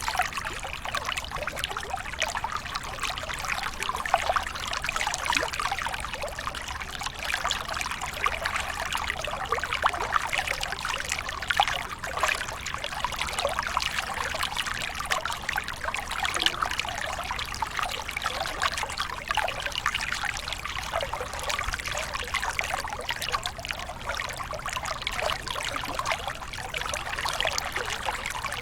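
Waterfall: water pouring and trickling steadily, with a dense patter of small splashes.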